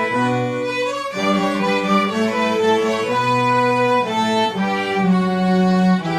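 String orchestra playing: violins carrying a melody over cellos and basses, with held notes and chords changing every second or so.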